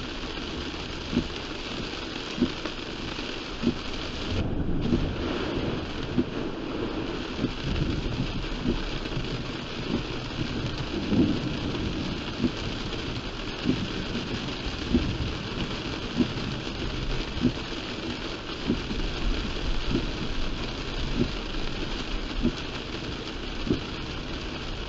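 Heavy rain pouring on a car driving through a thunderstorm, with a low rumble of thunder swelling a few seconds in and again near the middle. A short knock repeats steadily, a little slower than once a second.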